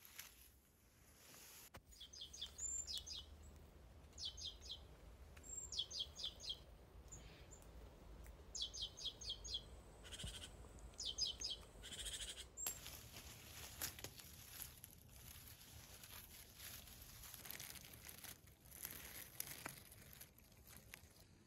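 A small songbird sings short, rapid trills of high notes, one burst every second or so, over a faint outdoor background. After about twelve seconds the song stops and only faint scattered rustles remain.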